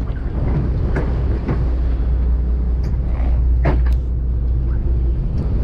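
Boat engine running with a steady low drone, with a few short clicks over it.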